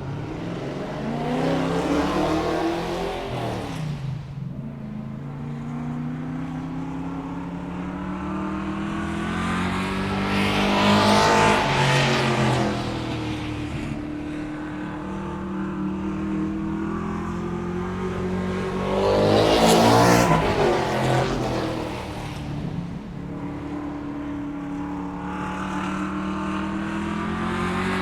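Cars driving past one after another at speed. Each engine note swells to a peak and falls in pitch as the car goes by, about three times, with another car approaching near the end.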